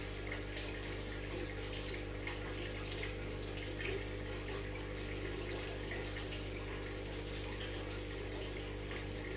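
Aquarium water bubbling and trickling steadily, with small splashy flecks, over the steady low hum of the tank's filter pump.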